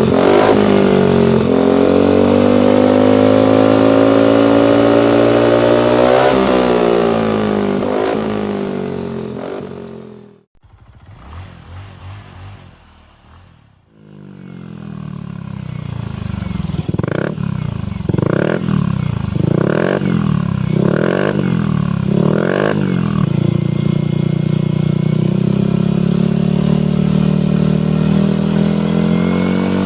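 Yamaha NMAX scooter's single-cylinder four-stroke engine through an aftermarket racing exhaust, running with rev swells, then a short quiet break about ten seconds in. A second exhaust follows: idling, given five quick throttle blips in a row, then running steadily.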